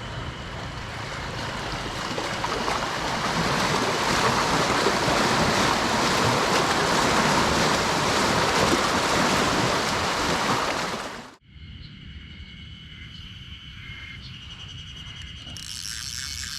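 Wind-driven lake waves washing in, with wind on the microphone, growing louder a few seconds in. About eleven seconds in it cuts off abruptly to a much quieter, calmer background with faint ticks.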